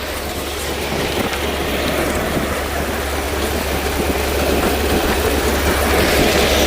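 1928 Ford Model A's four-cylinder engine running with the car under way, steady mechanical and road noise that grows slightly louder toward the end.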